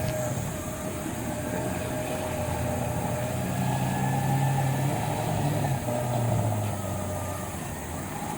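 A motor engine running steadily, its pitch wavering a little midway.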